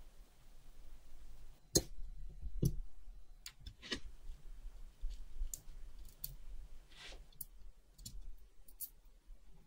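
Light, sharp clicks and taps at irregular intervals, about ten of them, from small metal watch parts and tools being handled on a workbench, over a faint low hum.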